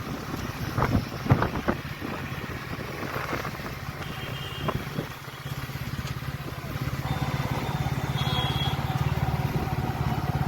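Motorcycle engine running with a steady low pulse, getting louder about seven seconds in, with a few sharp knocks in the first two seconds.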